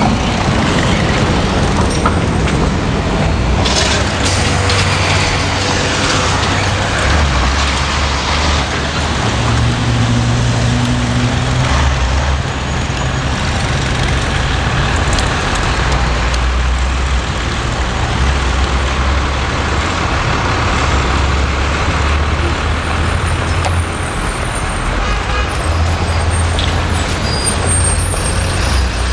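New York City Subway L train running: a loud, steady rumble of wheels on rail, with a low motor hum that shifts pitch in steps.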